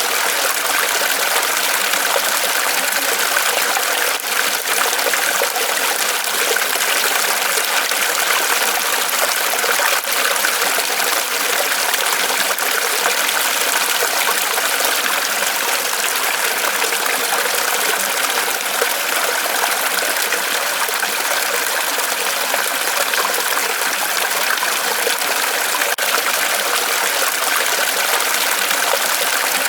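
Small waterfall of water pouring from a tree trunk, trickling and splashing steadily.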